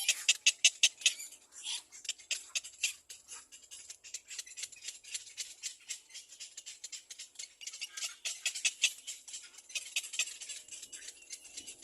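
Little black cormorant chick calling: a rapid, high-pitched chittering made of quick clicks, busiest in the first second and again about eight seconds in.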